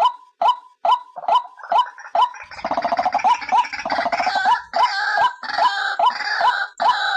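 White-breasted waterhens calling: one bird repeats a short, falling 'kru-ak' note about twice a second, and about two and a half seconds in a second bird joins with a rapid gurgling rattle, then higher chattering calls over the steady beat.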